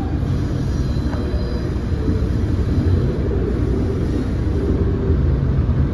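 Steady low rumble of a MARC commuter train running, heard from inside the passenger car.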